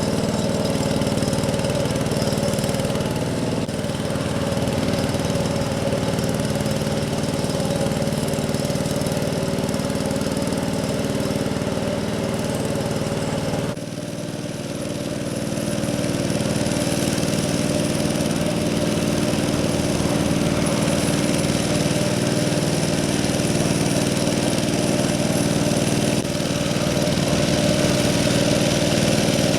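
Yanmar diesel engine of a two-wheel hand tractor running steadily under load. The engine note dips briefly about halfway through, then picks up again.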